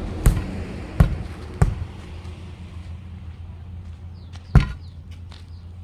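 Four sharp knocks, three in quick succession and then a louder one a few seconds later, over a steady low hum.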